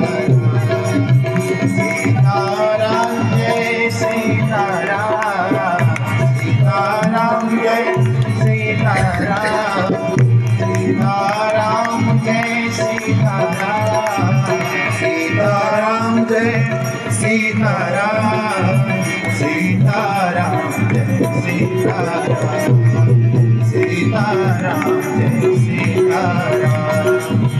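Indian devotional music: tabla playing a steady rhythm under a wavering, ornamented melody line.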